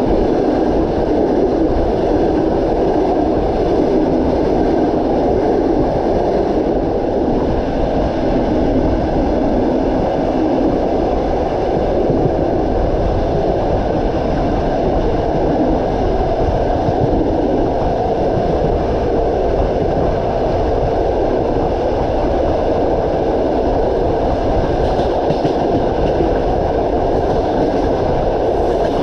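Train running along the track: a steady rumble of wheels on rails, even throughout.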